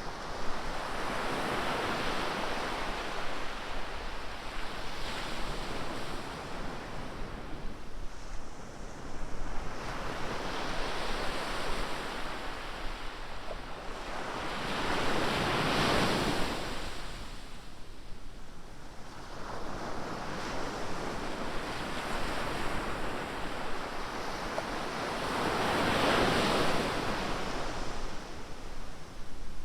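Ocean surf: waves breaking and washing up the beach in slow surges every several seconds, the loudest about halfway through and again near the end.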